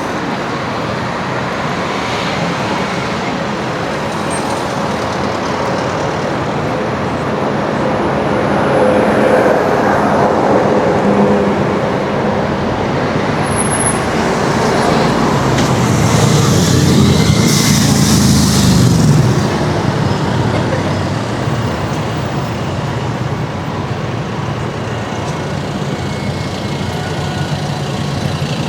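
Busy city-street traffic: steady road noise that swells as vehicles pass, loudest when a heavy vehicle goes by close, a little over halfway in.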